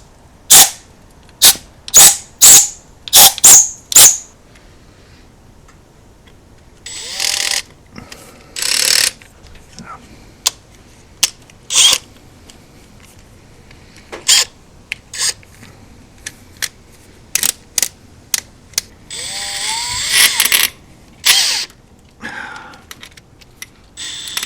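Drill run in short bursts as a bit starts to enlarge the coil-bolt holes in an aluminum valve cover, some bursts rising in pitch as the motor spins up. A string of sharp, loud clicks comes in the first few seconds.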